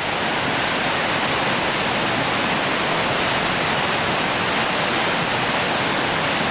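Steady rushing of whitewater pouring through a big river rapid.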